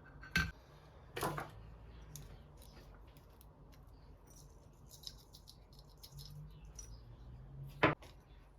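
Small objects being handled in a small room: a few sharp clicks and knocks, the loudest near the end, with light clattering and ticking in between.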